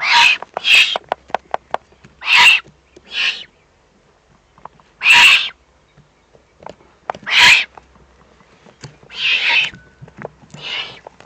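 Eurasian eagle-owl chicks giving harsh, hissing begging calls, about eight rasps at uneven intervals, with light sharp clicks between them. This is the begging of young owls being fed at the nest.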